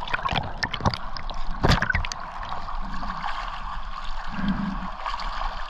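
Underwater water noise from strong current, heard through a camera housing. There are sharp knocks in the first two seconds and low muffled hums about three and four and a half seconds in.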